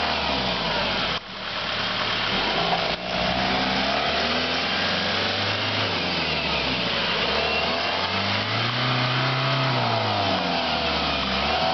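Car engine revving up and down at low speed as the vehicle works its way over stumps and rough ground, with two brief sudden drops in the sound about a second in and at about three seconds.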